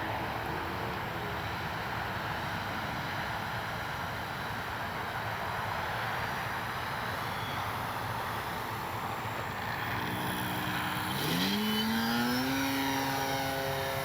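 Electric RC model plane in flight, its brushless outrunner motor and 13-inch propeller whirring in the distance. About three-quarters of the way through, the whine climbs in pitch and holds there as the throttle comes up or the plane passes closer.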